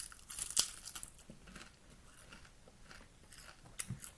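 Crunching bite into a packaged edible tarantula's shelled body: a sharp crack, then a brief cluster of crisp crackles in the first second, followed by a few faint chewing clicks near the end.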